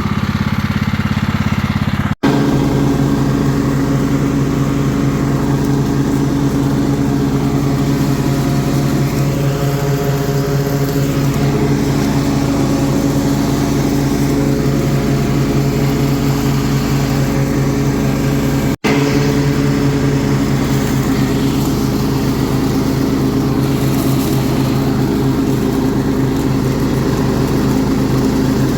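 A Kohler Command 16 hp engine on a riding lawn mower running steadily while mowing. The sound cuts out for an instant twice, about two seconds in and just past the middle.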